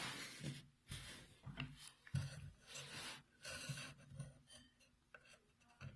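Faint, irregular rubbing and scraping of wood against wood, with a few light knocks: wooden pieces being handled and slid against each other.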